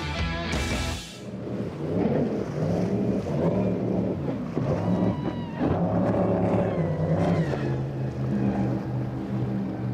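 Motorboat engines running, their pitch rising and falling as the throttle changes.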